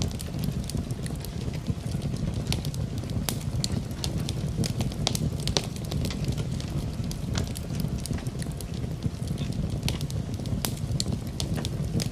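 Wood fire crackling in a fireplace, with frequent irregular sharp pops, over steady rain.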